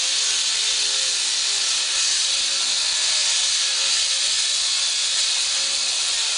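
Handheld concrete saw cutting into a concrete floor: a loud, steady, hissing grind of the blade in the concrete that runs without a break.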